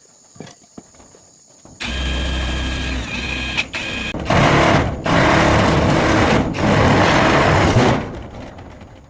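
A small electric power tool motor starts about two seconds in and runs with a steady whine, then a louder rough grinding noise runs for about four seconds before it winds down near the end.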